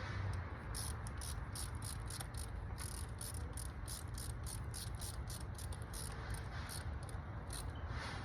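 Insect chirping outdoors: a steady run of short high-pitched chirps, about four a second, over a low background hum.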